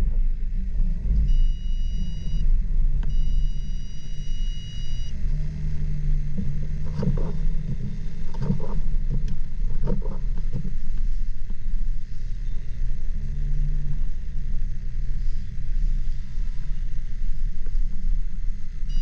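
Car driving, with a steady low rumble of engine and road noise. A high, steady electronic tone sounds twice in the first five seconds, and a few short knocks come in the middle.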